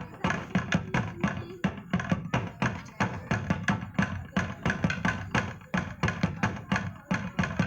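Percussion music with a fast, even beat of drum and wooden knocking strikes, about four to five a second.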